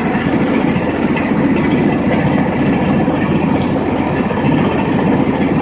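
Tractor-driven mini rice mill running steadily under load, its tractor engine and the huller's rapid rattle blending into one loud, continuous machine noise as paddy is milled into rice.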